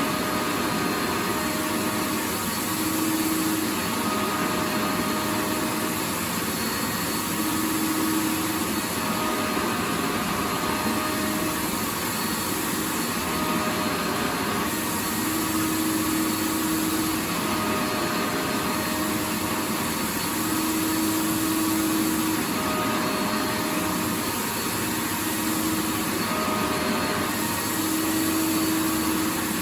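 Vacuum cleaner motor running continuously with a steady rushing whine. Lower humming tones fade in and out every few seconds.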